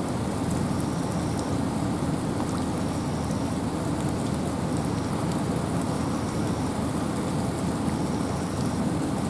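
Steady rain falling through forest with wind, an even rushing noise heaviest in the low range, with fine drop ticks over it.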